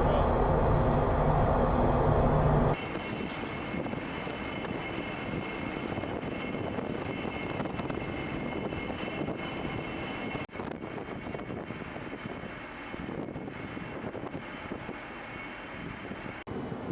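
Steady machinery drone with a high whine, like a jet or turbine engine running; no gunfire. About three seconds in it cuts abruptly to a quieter steady drone.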